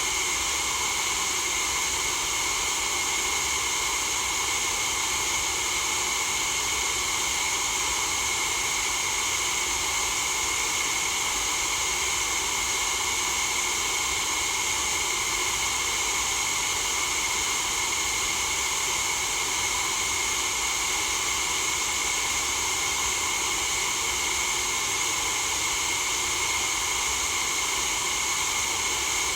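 Steady synthetic white noise: an even, unchanging hiss with its weight in the treble and little bass.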